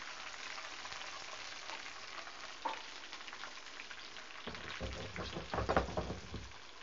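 Browned sliced onions and whole green chilies sizzling in hot oil in a frying pan, a steady crackle of frying on the oil's own heat with the flame turned off.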